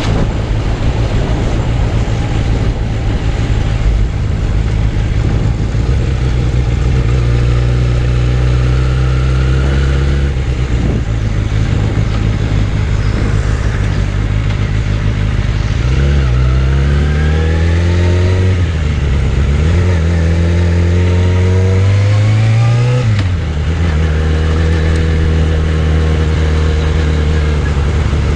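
Suzuki Bandit 600's inline-four engine running under way: it holds steady revs, then rises in pitch twice as the bike accelerates, dropping back after each, with wind noise over the microphone.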